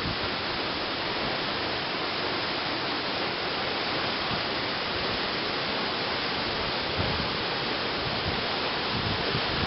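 Steady rushing roar of falling water from a 60 m jungle waterfall.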